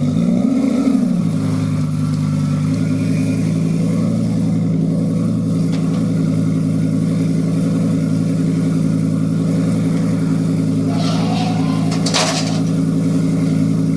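Lamborghini Gallardo V10 through an Ohnishi Heat Magic titanium muffler: a short throttle blip dies away about a second in, and the engine settles to a steady idle. A brief hiss cuts across the idle near the end.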